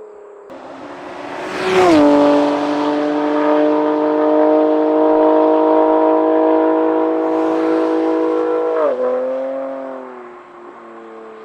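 BMW F8x M3/M4's S55 twin-turbo straight-six through a titanium equal-length valved exhaust with the valves open, driving by. The revs climb, then dip at a gear shift about two seconds in. The engine holds a steady note, then drops in pitch as the car passes late on and fades away.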